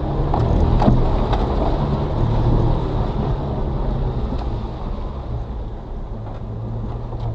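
A Suzuki Carry kei truck's 660cc engine pulling hard under throttle through mud and water, heard from inside the cab. Its hum rises and falls, with a few sharp knocks of the truck jolting. It is loudest about a second in.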